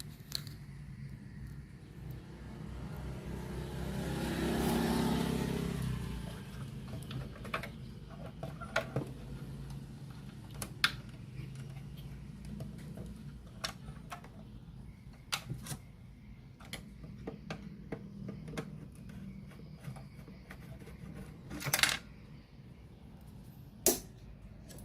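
A vehicle passes, its noise swelling and fading over the first six seconds. After that come scattered light clicks and taps, as of small metal and plastic parts being handled, with a few sharper knocks near the end.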